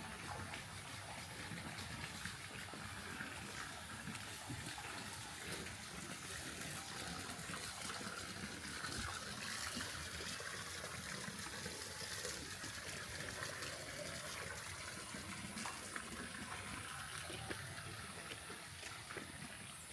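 Running water: a steady rush of flowing water, a little louder midway through.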